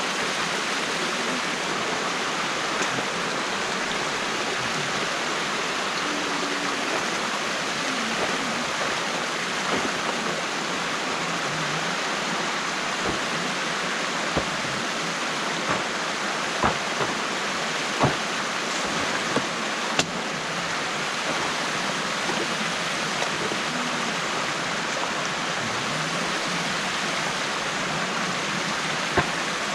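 Stream water rushing steadily through a broken beaver dam, with a few sharp knocks in the middle and one near the end.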